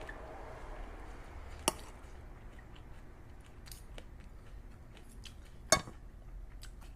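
Close-up eating sounds: quiet chewing, with two sharp clicks about four seconds apart and a few fainter ticks in between.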